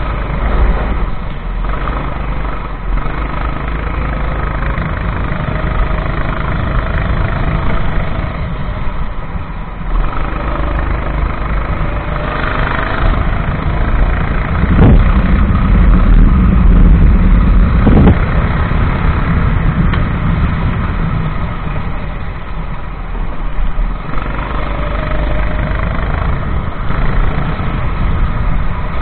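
Go-kart engine running flat out, its pitch rising and falling as the driver accelerates and lifts through the corners. Two sharp knocks come about three seconds apart midway through, and the engine is loudest between them.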